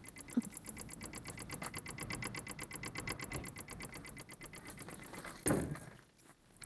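Rapid, even electrical ticking from a car that is switched off with the key out, with an ABS warning showing; the owner takes the ticking for the reason the car won't start. A loud knock about five and a half seconds in, after which the ticking stops.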